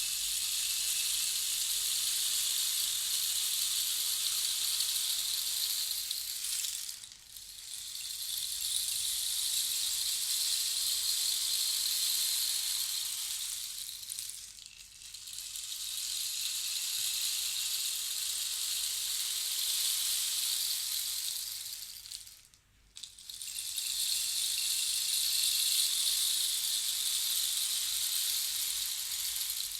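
Small beads or seeds pouring and rattling inside a hand-held percussion instrument, a soft steady hiss. It comes in long swells of about seven seconds as the instrument is slowly tipped back and forth, fading briefly between passes three times.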